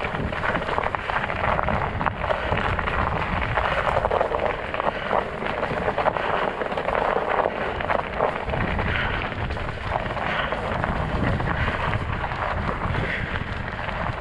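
Studded fat-bike tires rolling over snow and ice, a steady crackling crunch, with wind rumbling on the microphone.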